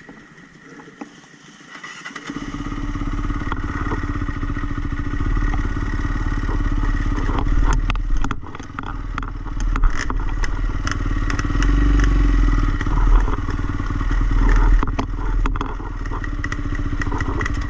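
Dirt bike engine comes in loud about two seconds in and runs on, its pitch rising and falling as the throttle opens and closes, with sharp clicks and knocks over it.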